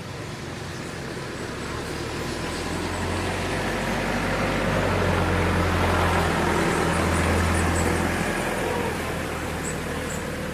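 A motor vehicle going past: a low engine hum with road noise that swells to its loudest about halfway through, then fades away.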